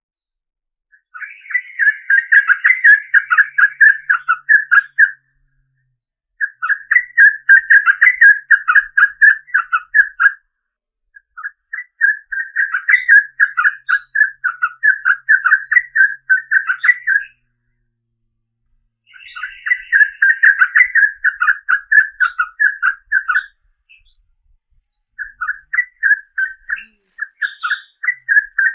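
Yellow-vented bulbul (trucukan) singing in five bouts of rapid chattering notes, each bout about four to six seconds long, with short pauses between.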